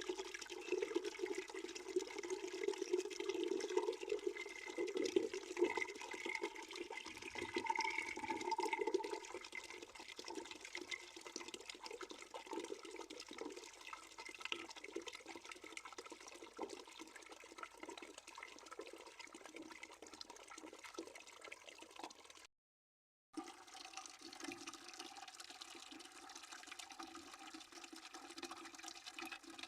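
Water pouring steadily into a bucket, a continuous splashing rush that is louder for the first nine seconds or so and then settles to a quieter, even flow. The sound cuts out completely for under a second about two-thirds of the way through.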